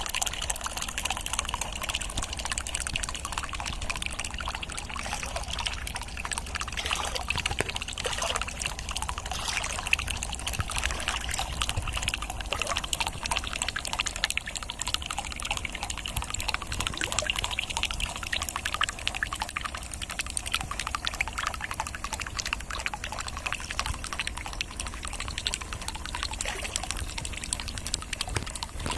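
Water trickling and splashing steadily, with a fine crackle throughout.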